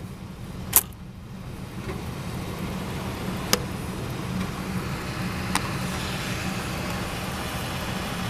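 Oil furnace burner running: a steady low motor hum with a rushing sound that builds over the first few seconds. A few sharp clicks come through, the loudest about a second in, and others at about three and a half and five and a half seconds.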